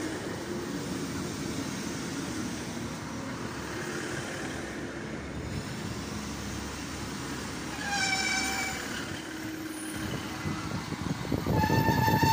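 Class 150 Sprinter diesel multiple unit running past the platform with a steady low engine and wheel rumble. About eight seconds in a short horn toot sounds, and near the end a loud, sustained high-pitched tone starts and grows louder.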